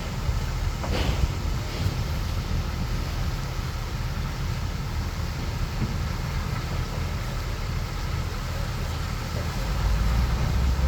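Bulldozer's diesel engine running with a steady low rumble, one sharp knock about a second in, and the rumble growing louder near the end.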